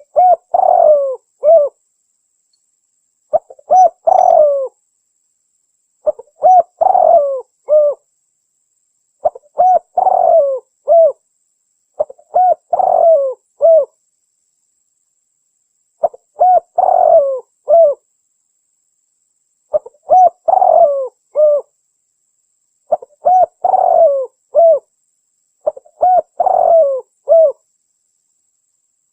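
Spotted dove cooing: the same multi-note phrase repeats about every three seconds, with silence between phrases. The call is billed as a female calling a male.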